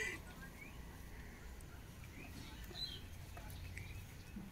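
Quiet outdoor ambience with a few faint, short bird chirps scattered through it, over a low steady rumble.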